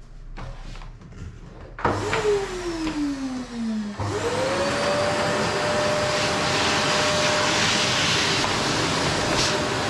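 Qilive vacuum cleaner switching on: a few faint clicks, then about two seconds in the motor starts with a tone sliding down in pitch, and about four seconds in it jumps louder with a rising whine that settles into steady running.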